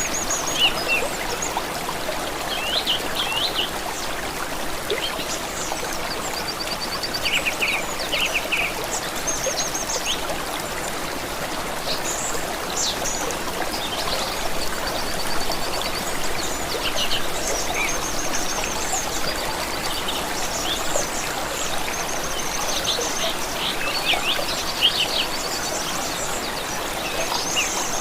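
A stream trickling steadily, with several birds singing and chirping over it: short calls and fast trills come and go throughout.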